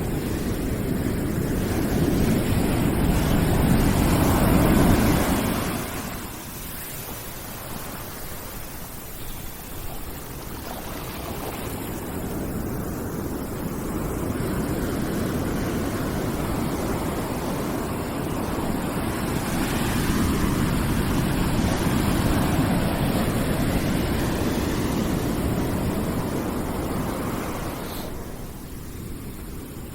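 Rushing noise of surf, swelling and easing off in slow waves: a strong surge in the first few seconds, a quieter lull, then another long swell before it eases again near the end.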